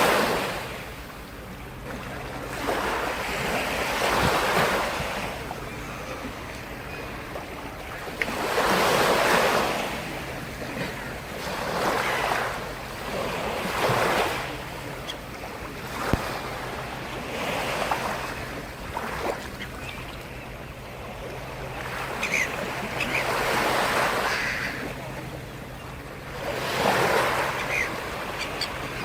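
Sea surf: waves breaking and washing up the shore, the rush swelling and fading every few seconds.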